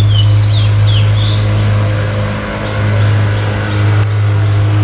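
A steady low mechanical hum, with a short dip about halfway. Birds chirp over it, a few quick gliding calls in the first second and fainter ones later.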